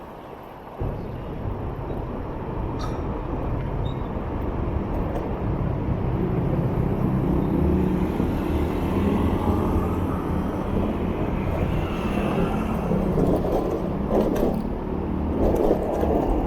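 Motorbike engine running with road and traffic noise as it rides, jumping suddenly louder about a second in and then growing gradually louder.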